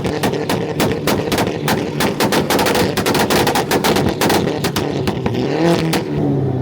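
Volkswagen Golf hatchback held on a two-step launch limiter, its exhaust banging and popping in a rapid machine-gun rattle of about four to five bangs a second. Near the end the bangs stop and the engine revs drop back.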